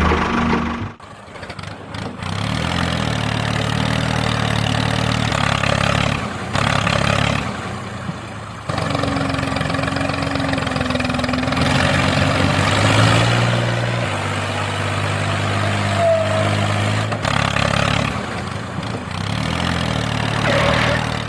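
Vehicle engine running at low speed, its pitch shifting up and down every few seconds.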